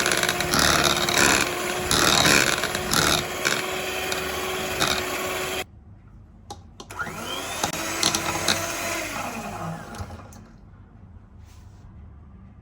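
A small electric kitchen motor, such as a mixer or blender, runs with a steady hum and uneven surges, then cuts off abruptly about halfway through. Quieter kitchen handling sounds follow.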